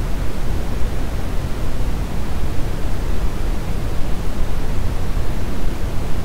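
Steady brown noise: an even, deep rushing hiss with most of its weight in the bass and little treble.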